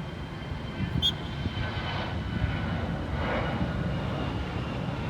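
A jet airliner passing low overhead: a steady engine rumble that grows a little louder. A short high chirp sounds about a second in.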